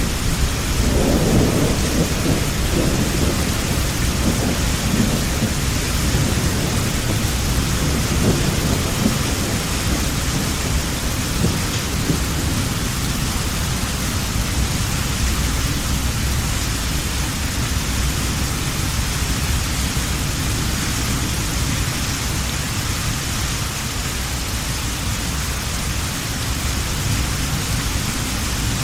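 Heavy rain falling steadily, with a deep rolling thunder rumble that dies away over the first ten seconds or so.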